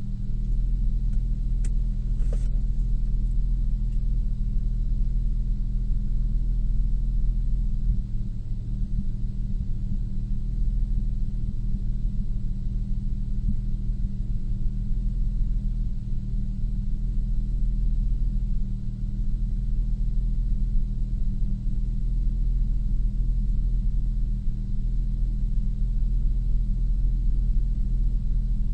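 A 2002 Nissan Maxima's VQ35DE V6 runs steadily with a low, even rumble, on a car being diagnosed for a P0300 random misfire code. A couple of faint ticks come about two seconds in.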